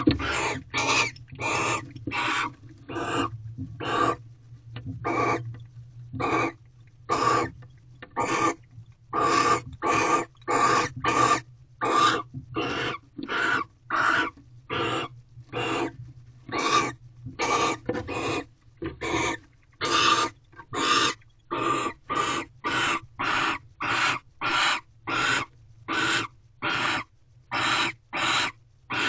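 Barn owl giving a long series of short raspy hissing calls in the nest box, about one to two a second.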